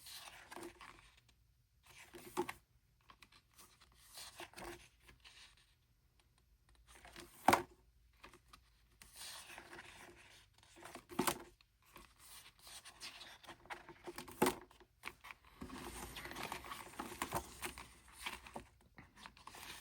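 Paper pages of a photobook being turned and handled: quiet, intermittent rustles and swishes, with three sharper page snaps spread through.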